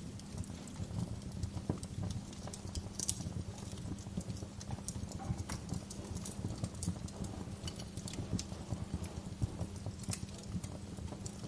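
Wood fire crackling in a fireplace: irregular sharp pops and snaps over a steady low rush of the burning, with one brighter pop about three seconds in.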